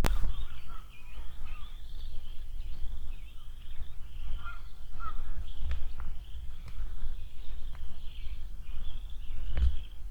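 Songbirds chirping steadily in a continuous wavering high twitter, over a heavy low rumble of wind on the microphone, with a few sharp clicks.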